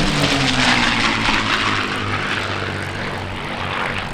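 Piston-engined propeller warbird flying past, its engine note dropping in pitch as it goes by, then a loud rushing sound that slowly fades.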